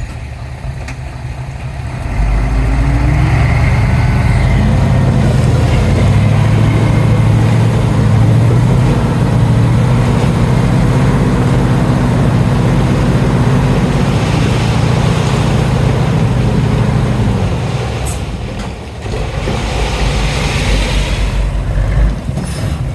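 Heavy diesel engine of earthmoving or haulage equipment working under load. It revs up about two seconds in, runs hard with its pitch rising and falling, eases briefly near the end, then picks up again.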